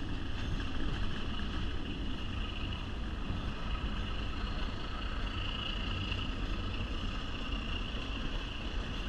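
Passenger train rolling along the track, heard from an open-air car: a steady rumble of wheels on rail mixed with wind noise, and a high steady whine that swells about halfway through.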